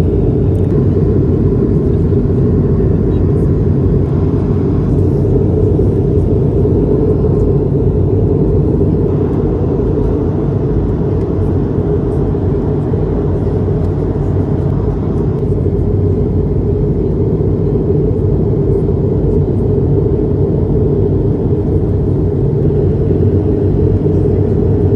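Steady in-flight cabin noise of an Airbus A220-300: the even drone of its Pratt & Whitney PW1500G geared turbofans and the airflow over the fuselage, heaviest in the low range.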